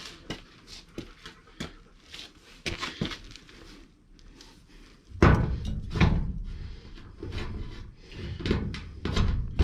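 Light clicks and knocks, then about five seconds in a loud thump followed by heavy thumping and rattling as the sheet-metal wall of a garden shed is worked on with tools.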